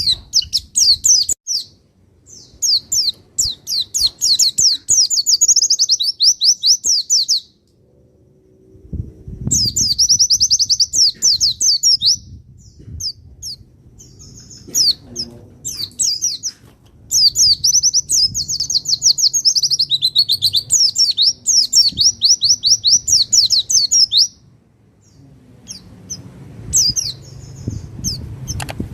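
White-eye (pleci) singing long, fast high-pitched trills, three runs of several seconds each with short chirps between them.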